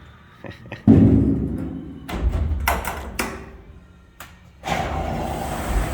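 A heavy thud about a second in, then several sharp knocks and bangs, followed by a steady rushing noise for the last second or so.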